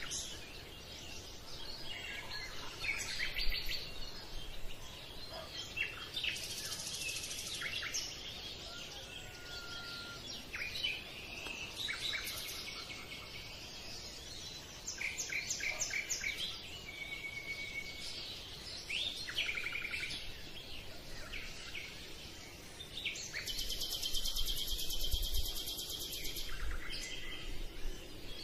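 Birds chirping and singing: varied short calls and quick trills, with a long, fast trill near the end.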